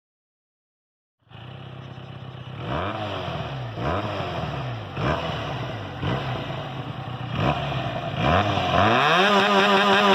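Benelli 302R parallel-twin motorcycle engine, cutting in about a second in, idling and blipped about five times in quick revs, then revved up and held high near the end.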